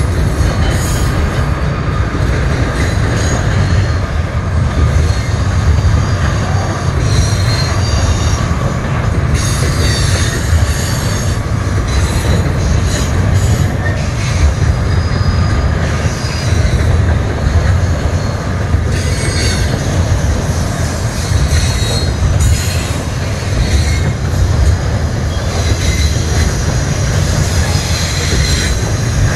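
Double-stack intermodal freight cars rolling past on the rails: a loud, steady rumble of steel wheels on track, with high-pitched wheel squeal coming and going.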